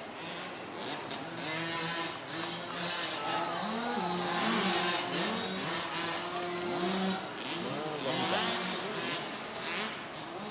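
Several motocross bikes racing around an arena track, their engines revving up and down in repeated rising and falling sweeps, with a steady hiss behind them.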